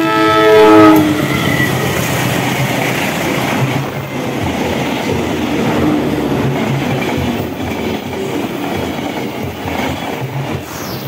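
Diesel locomotive horn sounding for about a second, then a passenger train running past close by, a steady loud rush of wheels on rails and passing coaches.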